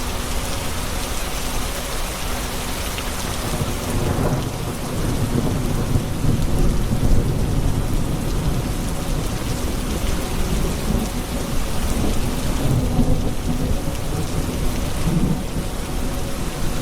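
Steady rain with rolling thunder: a low rumble builds about four seconds in and swells and eases over the rain's hiss.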